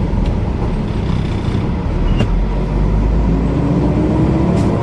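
Inside a semi-truck's cab on the move: a steady low engine and road drone. A faint tone glides upward from about three seconds in, and there are a couple of light clicks.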